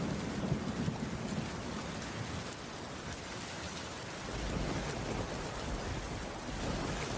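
Steady rain falling on a wooden cabin roof, with a low roll of thunder at the start and another beginning a little past halfway.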